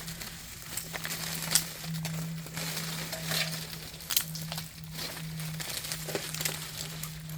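Irregular crackling and sharp ticking of ice, over a steady low hum.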